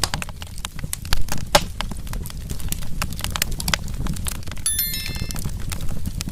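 Burning wood fire crackling: irregular sharp pops and snaps over a steady low rumble of flames, with a couple of louder pops a little past a second in. About four and a half seconds in, a brief high ringing chime.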